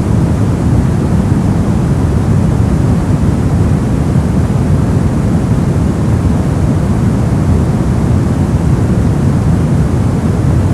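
Continuous white-noise sleep sound: a steady, unchanging rush with no events, its weight lying in the low end.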